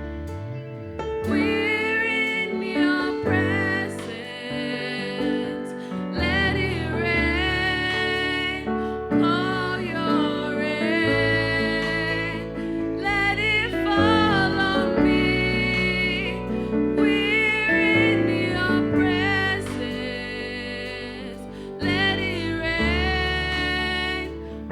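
Worship band playing a slow song, with a woman singing the lead over sustained instrumental accompaniment; the singing comes in about a second in, in phrases with a wavering, vibrato-like pitch.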